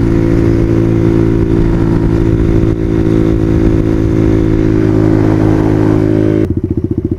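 Dual-sport motorcycle engine running at a steady pitch under the rider, with wind noise. About six and a half seconds in, the throttle closes and the note suddenly drops to a slower, pulsing beat.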